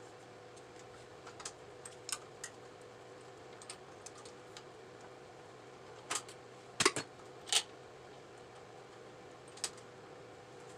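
Hand tools and metal parts clicking and clinking irregularly while motorcycle handlebar clamp bolts are worked on, with a few louder knocks about six to seven and a half seconds in, over a faint steady hum.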